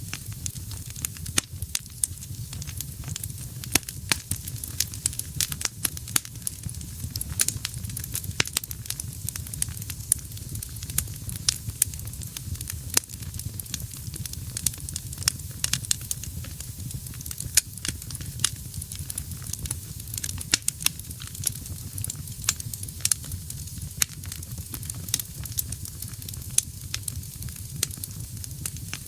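Wood fire burning in a fireplace: a steady low rumble and hiss of the flames with frequent irregular sharp crackles and pops from the burning logs.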